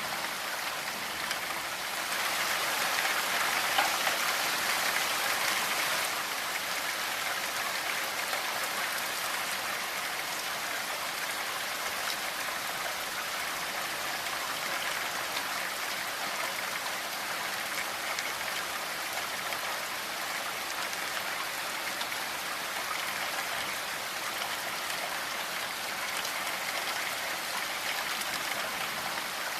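Steady rainfall, an even patter of drops on surfaces, swelling slightly for a few seconds near the start.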